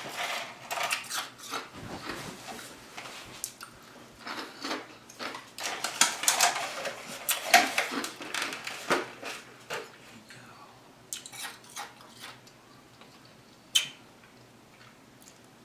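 Close-up eating sounds: a person chewing and smacking their mouth, with scattered clicks. The sounds thin out over the last few seconds, broken by one sharp click.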